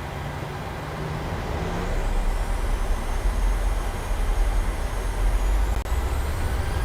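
Boeing 737-800's CFM56-7B turbofan engines spooling up to takeoff thrust at the start of the takeoff roll. A low rumble builds and grows louder, and from about two seconds in a high whine rises in pitch.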